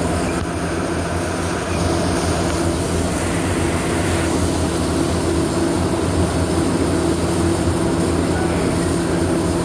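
Steady machinery noise: a constant low hum under an even hiss, with no strokes or changes.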